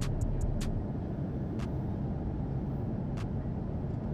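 Steady low rumble of a Boeing 777-200's cabin in cruise flight, with a few light clicks.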